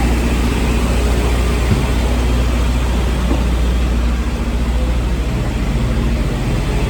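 A large engine running steadily: a loud, even low rumble, with a single short knock a little under two seconds in.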